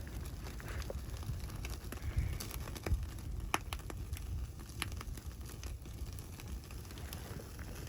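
Wood fire crackling, with scattered sharp pops and snaps over a steady low rumble; a few louder pops come two to three and a half seconds in.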